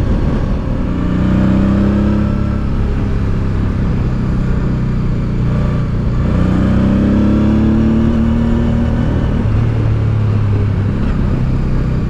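Honda Deauville's 650 cc V-twin motorcycle engine pulling hard under acceleration. Its note rises in pitch twice and settles lower near the end, with steady wind and road rush over the microphone.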